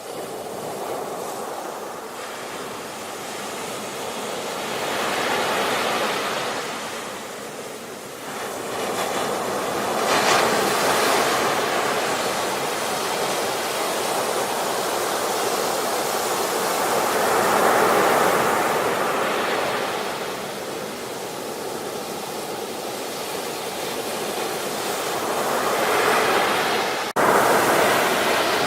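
Ocean surf breaking and washing back, in a steady rush that swells and falls every several seconds, loudest about 10 and 18 seconds in. Near the end the sound drops out for an instant and comes back louder.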